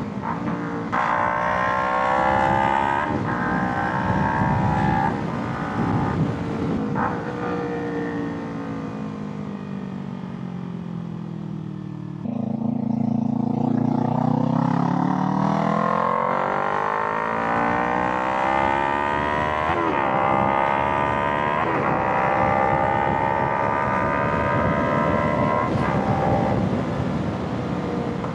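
Kawasaki Ninja 300's parallel-twin engine under way, shifting through the gears with short breaks in the note in the first few seconds. Then the revs fall away as it slows off the throttle, and about twelve seconds in the throttle opens again and the revs climb steadily, with further gear changes later on.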